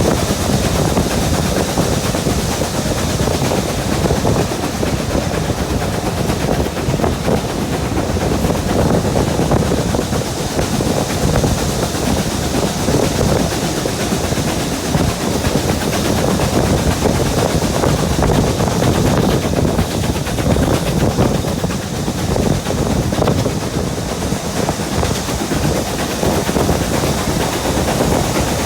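Train running on the line: a steady, loud rumble and rattle of wheels and carriages.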